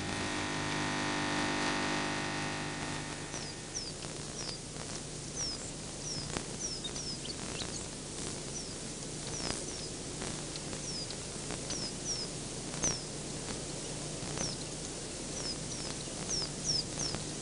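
A bird repeatedly giving short, high chirps that each slide downward, about one or two a second, over faint hiss and a few light clicks. For the first few seconds a steady humming tone with many overtones sounds, then fades out.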